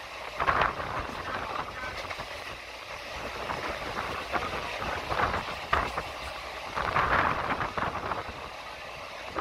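A train running along the track, heard from on board: a continuous rumble with irregular clacks and rattles from the wheels and carriage. The rattling swells briefly about half a second in and again around five to seven seconds in.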